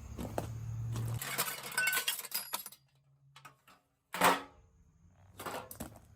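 Pieces of scrap metal clinking and knocking as they are handled, with one loud clank about four seconds in. A low hum runs under the first second.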